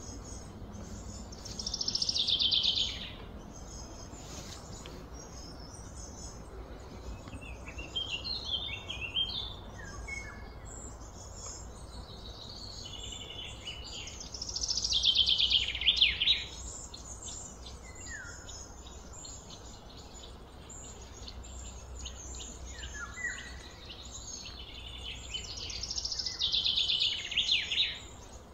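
A songbird singing the same phrase three times, about twelve seconds apart, each a quick run of high notes sliding downward, with a few shorter chirps between. A steady low outdoor background hum runs underneath.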